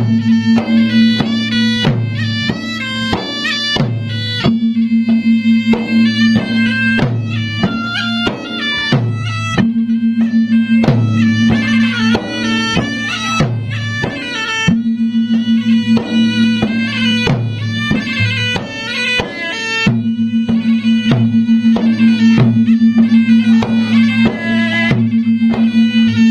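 Traditional Bugis–Makassar gendang drums beating a fast, driving rhythm under a stepped, high melody over a steady low drone.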